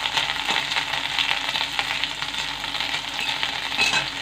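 Dried red chillies and dried Bombay duck (loitta shutki) sizzling and crackling in hot mustard oil in a karahi, with a spatula stirring them around the pan.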